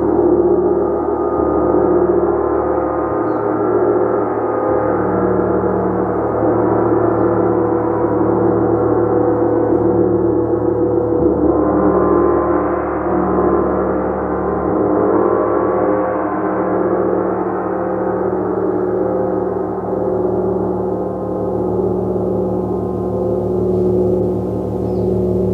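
A gong played continuously, a dense sustained wash of many overlapping tones that swells a little around twelve and sixteen seconds in.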